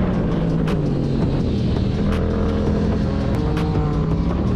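Motorcycle engine running at fairly steady revs, its pitch stepping up and down slightly a few times.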